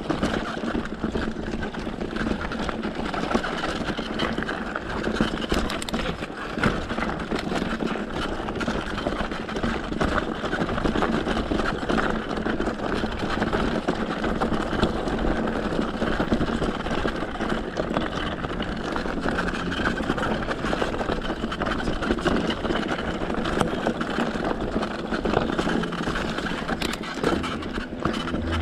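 Mountain bike rolling along a dirt fire road: steady tyre and wind noise with frequent small rattles and clicks from the bike.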